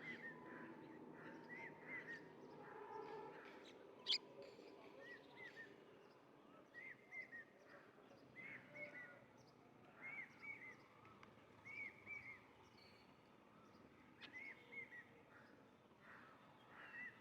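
Faint bird chirping: short arched chirps in groups of two or three, repeating every second or two. A single sharp click about four seconds in is louder than the chirps.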